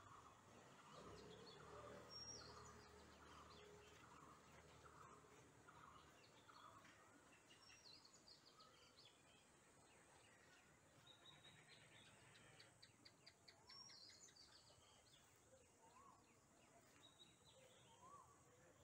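Faint birdsong: several birds chirping and calling, with a quick trill about two-thirds of the way through and short rising whistles near the end, over a low background hiss.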